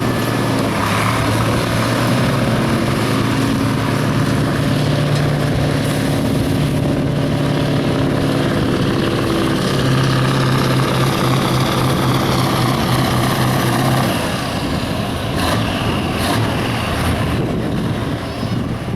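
Pulling truck's engine at full throttle, dragging the weight sled and held at high, nearly steady revs. About fourteen seconds in the engine tone drops away as the run ends.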